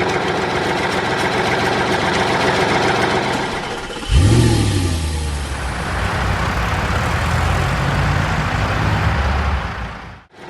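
Engines running steadily. About four seconds in, a deeper engine starts and runs at a steady pitch until shortly before the end.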